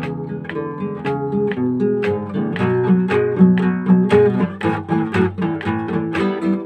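Solo guitar playing an instrumental piece: plucked notes and chords, several a second, in a steady flowing rhythm.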